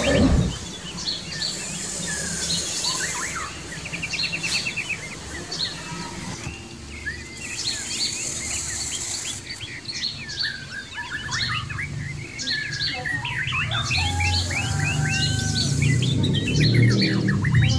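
Many small birds chirping and twittering, a dense chorus of short calls, with a quick rattling trill about three seconds in.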